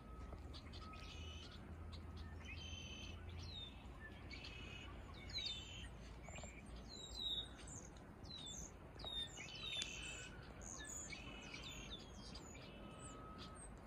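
Several small birds chirping: many short, quick, high calls that sweep downward, coming thicker in the second half, over a faint low rumble.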